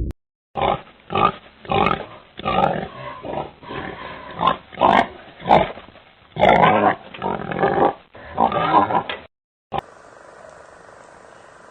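Pig grunting in a quick, irregular series of loud short grunts, which stops abruptly about nine seconds in, followed by a steady faint hiss.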